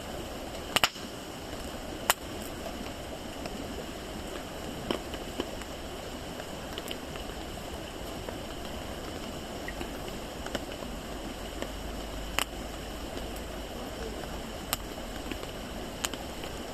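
Wood fire burning with a steady hiss, broken by a few sharp, separate crackles and pops, the loudest about one and two seconds in.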